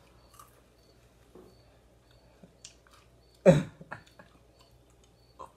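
Quiet chewing and mouth sounds of people eating fried chicken and shrimp, with scattered small clicks. One short, loud vocal sound comes about three and a half seconds in.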